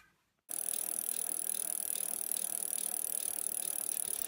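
Bicycle hub ratchet ticking rapidly as a wheel spins. It starts abruptly about half a second in and holds steady, then cuts off suddenly at the end.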